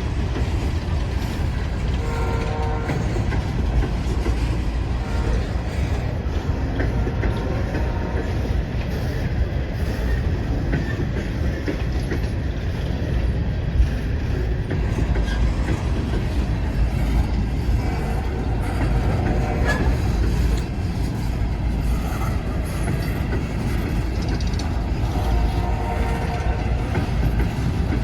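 Empty steel coal hopper cars of a long freight train rolling slowly past, a steady rumble and rattle with wheels clicking over the rail joints.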